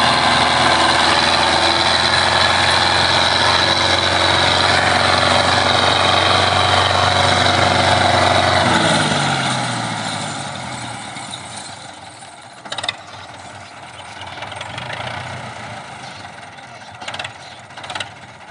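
Belarus 510 tractor's diesel engine running steadily at raised revs. About nine seconds in, the revs drop away and it becomes much quieter. A few short sharp knocks come near the end.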